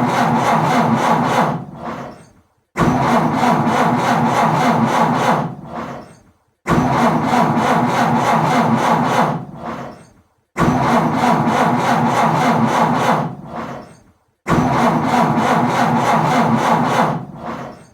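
A car engine being cranked by its starter without catching, in repeated attempts about every four seconds. Each attempt cuts in suddenly, runs for about three seconds and trails off: the engine fails to start.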